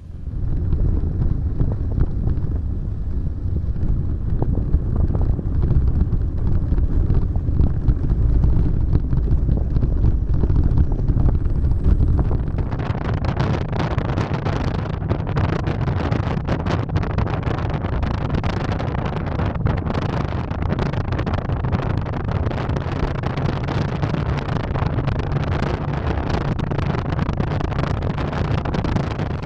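Small scooter engine running steadily while riding, with heavy wind buffeting on the microphone; the wind noise grows louder and harsher about halfway through.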